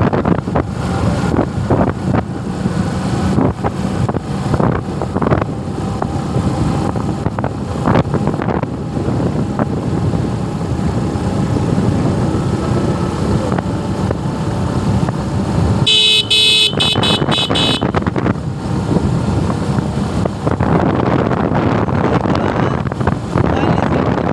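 Road and wind noise from a Suzuki Gixxer motorcycle on the move, with a vehicle horn sounding for about two seconds about two-thirds of the way through and briefly again at the end.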